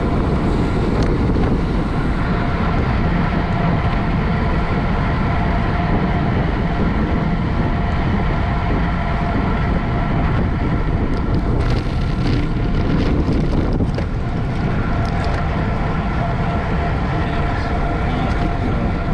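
Steady wind noise rushing over the microphone, with a low rumble and a faint steady hum above it; a few faint clicks about two-thirds of the way through.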